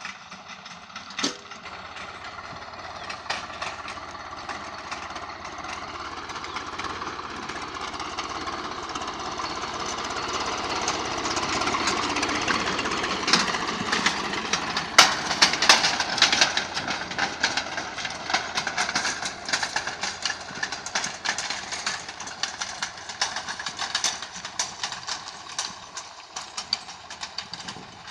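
Swaraj 744 FE tractor's three-cylinder diesel engine working under load while pulling an 11-tine tiller, with dense clattering knocks over the drone. It grows louder toward the middle, then fades.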